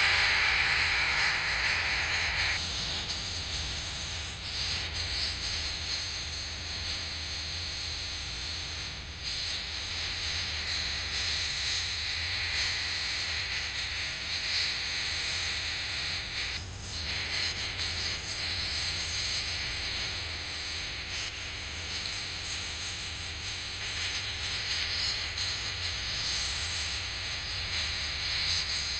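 Music stops about two seconds in, leaving a steady hiss with a low hum underneath.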